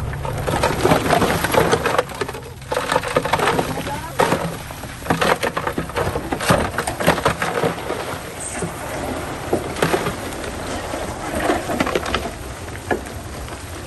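Bulldozer pushing dirt and stone: irregular crunching and cracking of rock over the low rumble of the engine.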